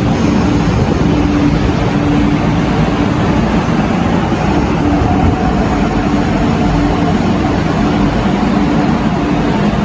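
MTR East Rail line R-Train electric multiple unit running on the track with a steady rumble, a low hum coming and going through it.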